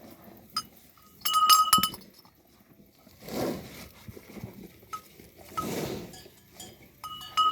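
A small metal bell clinking in short runs of rapid strikes, about a second in and again near the end, as the animal wearing it feeds. In between come two brief louder rushes of noise.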